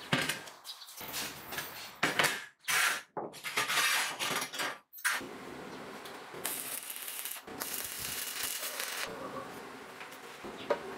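Scraping and rubbing in irregular strokes over the first few seconds, then a steadier, continuous rubbing.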